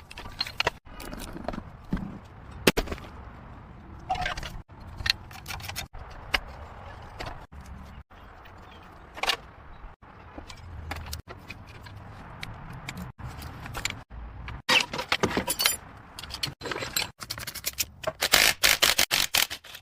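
Hand tools working on metal car parts: clinks, knocks and scraping, with quick runs of rattling clicks about 15 seconds in and again near the end. The sound is cut together from many short clips.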